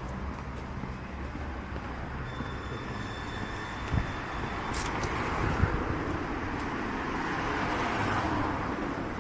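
Steady outdoor rushing background noise that swells from about halfway through and eases near the end, with two light knocks.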